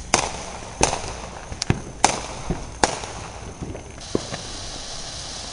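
Consumer fireworks going off: a run of sharp cracks, about one a second through the first three seconds, then fainter pops. In the second half a ground fountain hisses steadily as it sprays sparks.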